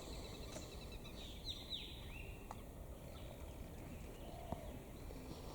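Faint high bird calls: a rapid twittering chirp in the first second, then a few short, sharp calls sliding downward in pitch, about one and a half to two and a half seconds in, over a steady background hiss.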